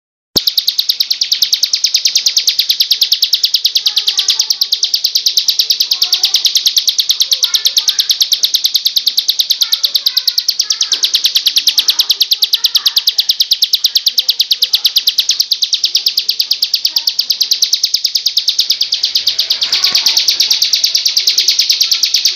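A songbird's rapid-fire 'trotol' trill: an unbroken rattle of very fast repeated high notes, many a second, starting abruptly and running on without a pause, with fainter chirps from other birds beneath.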